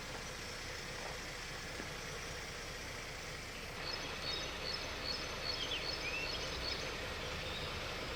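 Steady outdoor background noise. About halfway through, a bird starts chirping: a quick series of short high chirps with a couple of falling whistled notes.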